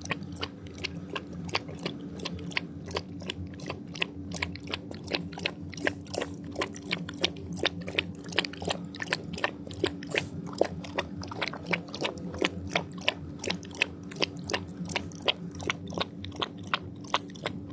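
Animals eating: a rapid run of crisp crunching and pecking clicks, several a second, over a steady low hum.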